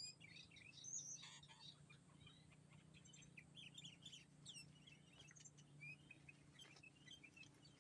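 Sooty-headed bulbul (kutilang) calling, faint: a run of short chirps and quick rising whistles, the calls of a decoy bulbul drawing in rivals. A faint steady low hum lies underneath.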